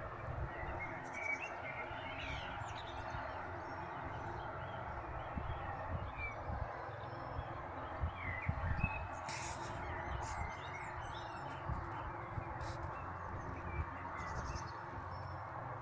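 Birds chirping here and there over a steady background hiss and low rumble, with a brief sharp rustle or click about nine seconds in.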